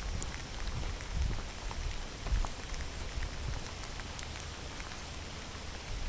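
Steady heavy rain falling, with scattered sharp ticks of individual drops and an uneven low rumble underneath.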